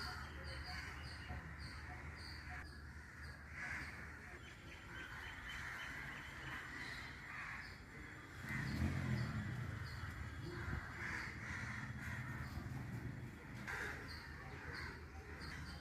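Crows cawing now and then over a garden's outdoor ambience, with a short high chirp repeating about twice a second. A louder low rumble comes in about halfway through and lasts a couple of seconds.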